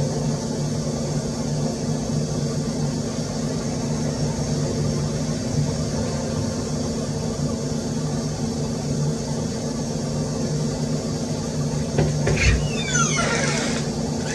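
A steady mechanical hum with a low drone throughout. Near the end come a few short chirps that fall in pitch.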